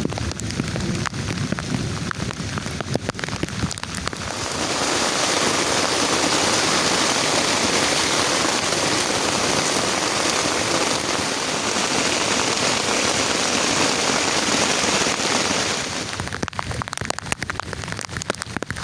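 Heavy rain pattering, with sharp individual drop hits at first. About four seconds in it swells into a dense, steady downpour hiss, which eases back to separate pattering drops near the end.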